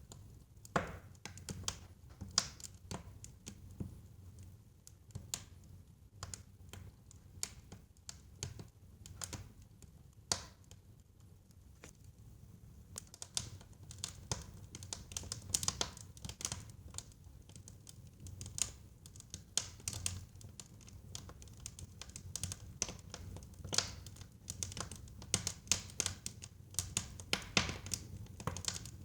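Burning wood in a fireplace crackling: irregular sharp pops and snaps over a low, steady rumble of the fire. The pops come thicker from about halfway through.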